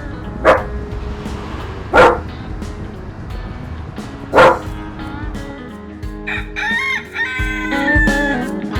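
Rooster crowing and chickens calling over a steady music bed, with three short, loud bursts in the first half and a longer rising-and-falling call in the last few seconds.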